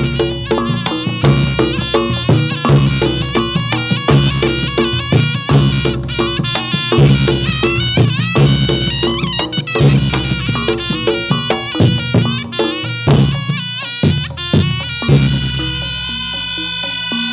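Reog Ponorogo gamelan music for a jathilan dance: a shrill, nasal slompret reed pipe plays a melody over fast kendang drumming and gong-chime strokes. Near the end the drumming drops out and the reed holds one long note.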